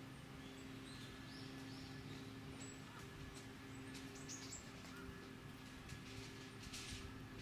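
Faint bird chirps over quiet outdoor ambience with a steady low hum, and a short burst of noise near the end.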